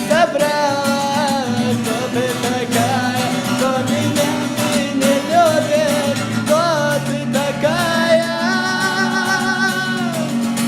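Music: a voice sings a drawn-out, ornamented melody over strummed acoustic guitar, holding one long note near the end.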